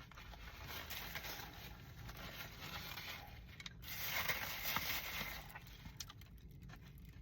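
Someone eating a chicken Caesar wrap close to the microphone: chewing and rustling, swelling louder about four seconds in, with a few small clicks.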